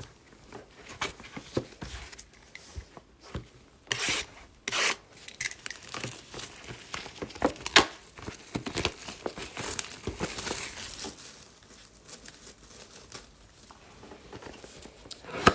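Trading card pack wrappers being torn open and crinkled by hand, in irregular rustling bursts that are strongest about four to five seconds in and again from about seven to eleven seconds in.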